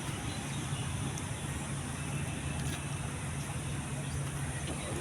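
A steady low hum over a constant wash of background noise, like a motor or distant road traffic.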